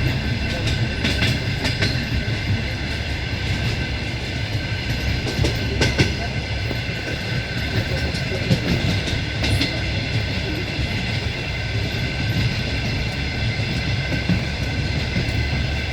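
Passenger train running steadily, heard from inside the carriage: a low rumble of wheels on rail with a constant high ringing whine, and a few sharp clicks as the wheels pass rail joints.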